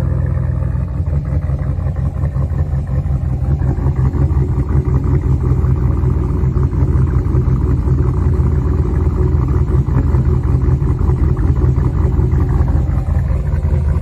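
5.7 HEMI V8 with a BTR Truck Norris aftermarket camshaft idling through a stock muffler-only exhaust, a steady, choppy rumble.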